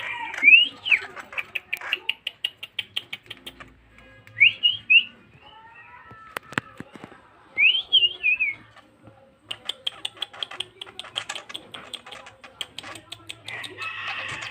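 Young long-tailed shrike chattering in fast runs of short, harsh ticks, broken by two brief groups of rising-and-falling whistled notes, with one sharp click near the middle.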